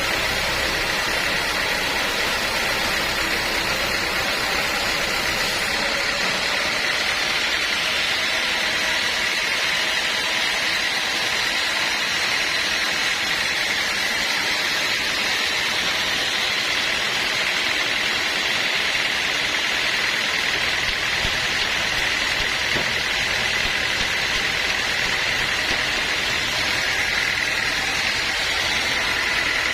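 Sawmill machinery running steadily, a constant mechanical drone with a steady high whine over it.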